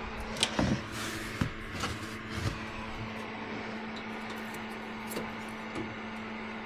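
A few light knocks and rustles of hands working on a TXV sensing bulb and refrigerant tubing, mostly in the first couple of seconds, over a steady electrical hum.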